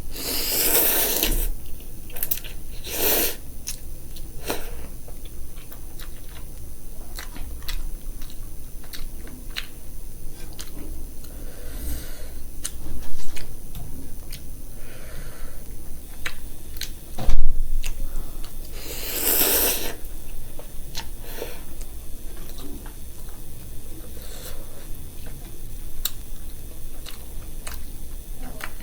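Close-up mukbang eating sounds: chewing and crunching food, with many small wet clicks, a few louder noisy bursts and one short thump.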